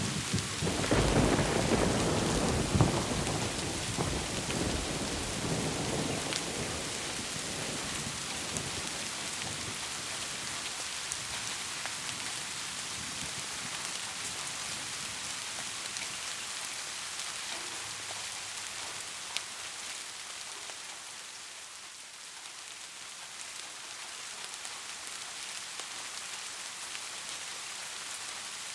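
Steady rain hiss with a long roll of thunder that swells just after the start and slowly rumbles away over the next several seconds, leaving the rain alone with scattered drip clicks.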